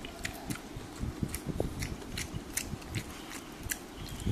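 A person chewing a mouthful of food, with scattered small clicks. Near the end a hand scoops up food.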